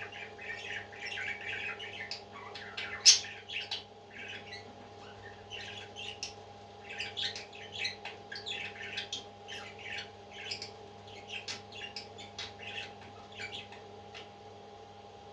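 Parrots squawking in many short, sharp calls that come in irregular bursts and die away near the end, over a steady electrical hum. A single sharp click about three seconds in is the loudest sound.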